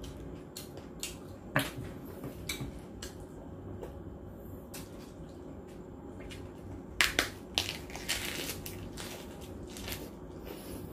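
Close-miked chewing of roast pig head and a romaine lettuce leaf: wet mouth clicks and crackles throughout, with a cluster of sharp crunches about seven seconds in as the lettuce is bitten.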